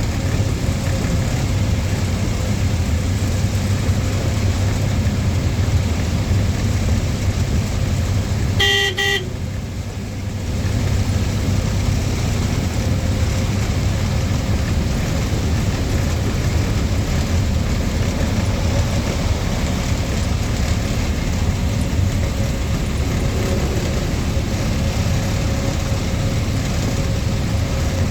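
Steady engine and road noise of a lorry on the move, with one short horn toot about nine seconds in. The noise drops briefly just after the toot.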